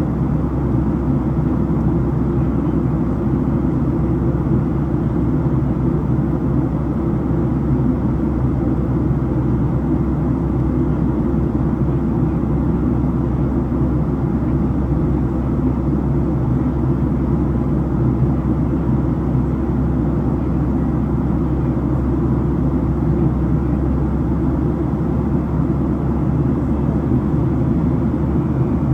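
Steady low rumble of engine and airflow noise inside the cabin of a Boeing 737-700, from its CFM56-7B turbofans.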